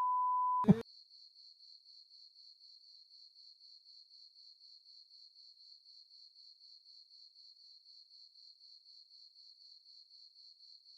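A short steady beep, then faint cricket chirping, evenly pulsed at about five chirps a second, over dead silence.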